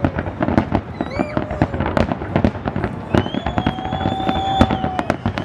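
Aerial fireworks display: a dense, irregular run of bangs and crackling from many shells bursting at once. A few high whistles are held for a second or two from about three seconds in.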